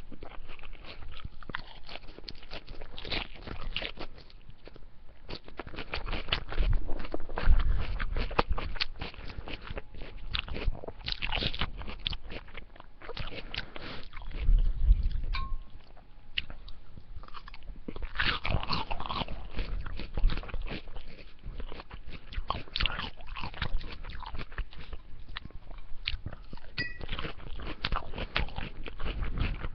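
Close-miked chewing and crunching of food, irregular wet clicks and crackles from a mouth eating.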